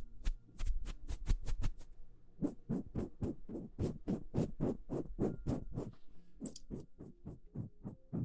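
Rapid, rhythmic ASMR trigger strokes close to the microphone, about three to four short scratchy strokes a second.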